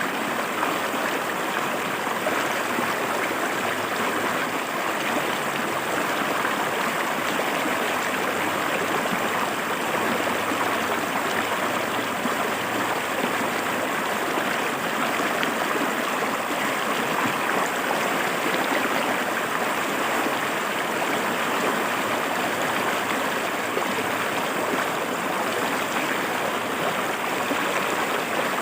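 River water flowing and splashing over rocks, a steady, unbroken rush.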